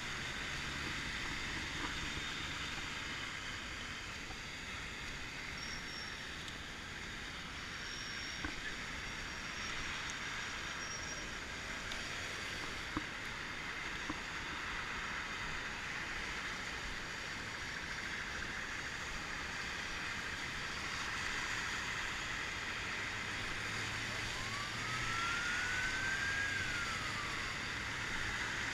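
Flash-flood water rushing steadily across a creek crossing. Near the end there is a single whistle that rises and then falls, over a low hum.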